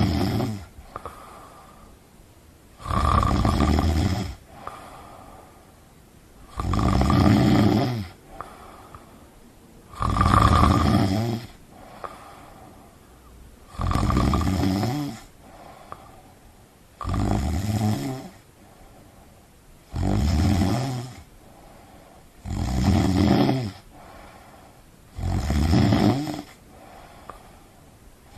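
Loud, regular snoring: about eight rattling snores, each lasting about a second and a half and coming roughly every three seconds, with much quieter gaps between.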